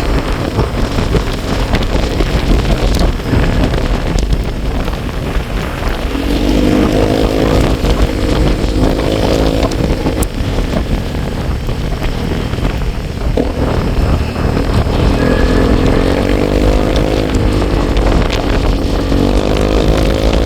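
Vehicle engine running while driving, its note rising and falling several times as it revs, over heavy wind rumble on the microphone.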